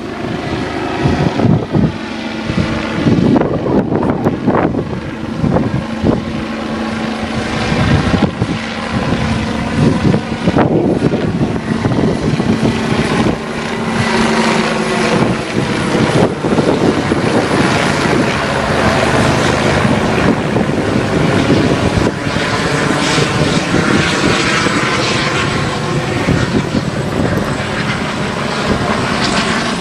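Medical helicopter's rotor and turbine engine running loud and close as it comes in to land, a steady hum under the rotor noise fading out about halfway through.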